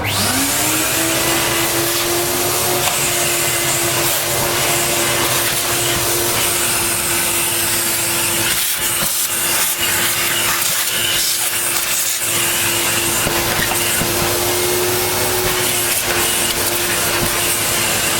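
A vacuum cleaner switches on, its motor whine rising within a second to a steady pitch over a strong rush of air as it sucks dust out. The air noise dips briefly a few times about halfway through.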